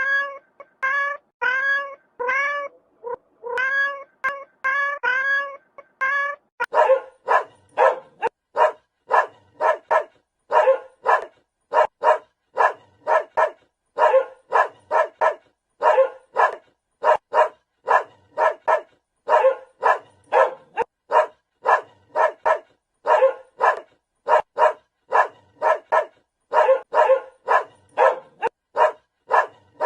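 A cat meowing over and over in short, evenly spaced calls, about two a second. About six seconds in, it cuts to a dog barking rapidly and steadily, two to three barks a second, which runs on from there.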